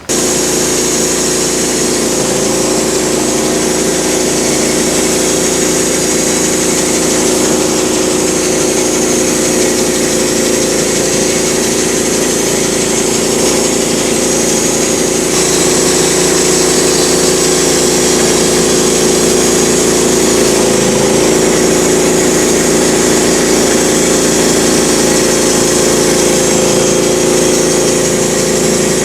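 Sawmill engine running steadily as the mill is started on a walnut log. There is a slight shift in its tone about fifteen seconds in.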